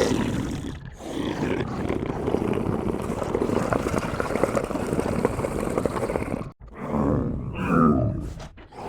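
Monster or alien creature sound effect: a long, rough, tense growl that breaks off about six and a half seconds in, followed by a short grunt falling in pitch.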